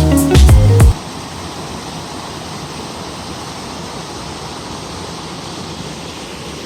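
Guitar-and-drum background music cuts off about a second in, giving way to the steady rush of flowing water.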